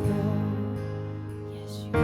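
Soft instrumental worship music led by acoustic guitar, a held chord slowly fading away.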